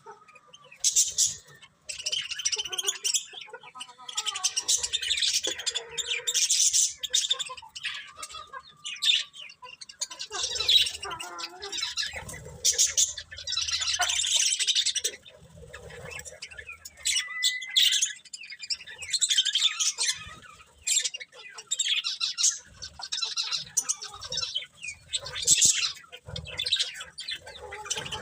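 Pet budgerigars chirping and warbling in a steady, irregular chatter of overlapping high calls, broken by short pauses.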